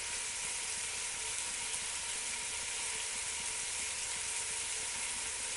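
Chicken pieces sizzling in hot cooking oil with garlic and chilli seeds, a steady, even frying hiss.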